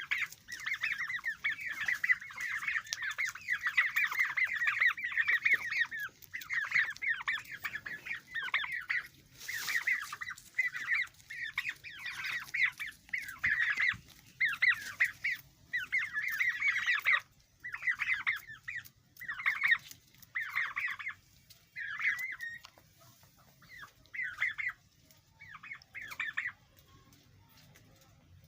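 Turkey poults peeping, a dense stream of high chirps at first, then breaking into separate bursts that grow sparser and stop shortly before the end.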